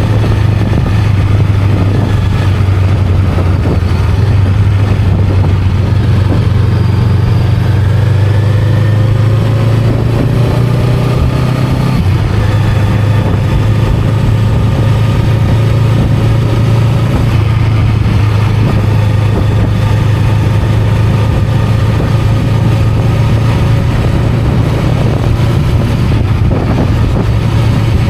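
Honda Rebel 500's 471 cc parallel-twin engine running at a steady low pitch, its exhaust note holding even, with a few faint rising tones about a third of the way through.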